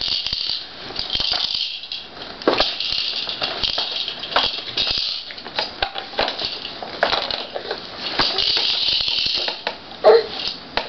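A child's plastic toys rattling and clicking, shaken and knocked in quick, irregular shakes.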